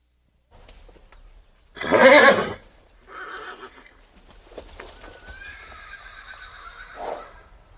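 Horse neighing: a loud, short call about two seconds in, then a longer whinny from about five seconds in that ends in a louder burst near the end.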